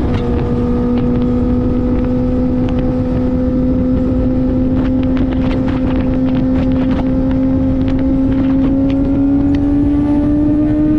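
Kawasaki ZX-4RR's inline-four through an SC-Project slip-on exhaust, running steadily in one gear and slowly rising in pitch as the bike gently gains speed, with wind noise on the microphone.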